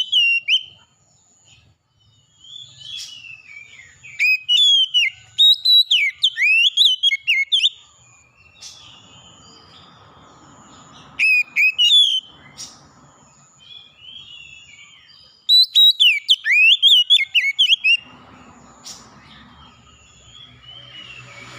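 Songbirds singing: loud phrases of quick whistled notes that slide up and down, each phrase lasting one to three seconds with pauses between, over a thin, high note repeated on and off.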